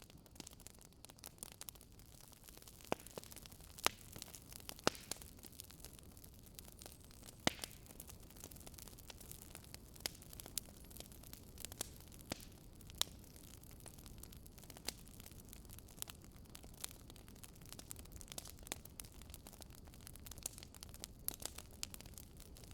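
Wood fire crackling: irregular sharp pops and snaps, a handful of them louder, over a faint steady hiss.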